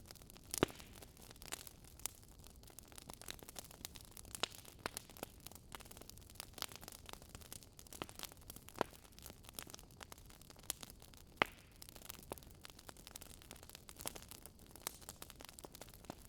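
Wood fire crackling: irregular sharp pops and snaps over a soft steady hiss, with a few louder pops about half a second in and near the middle.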